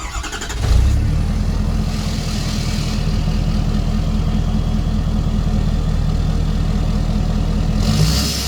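Ford F350's 6.7L Power Stroke V8 turbo-diesel running, swelling within the first second and then holding a steady idle. Its exhaust is rusted through at the muffler and tailpipe clamps, the cause of the truck sounding funny.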